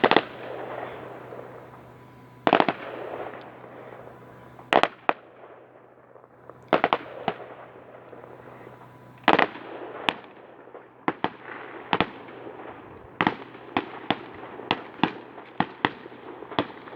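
Fireworks display: aerial shells bursting with sharp bangs, some followed by a rumbling echo. The bangs come a couple of seconds apart at first, then quicken into a rapid run of cracks in the second half.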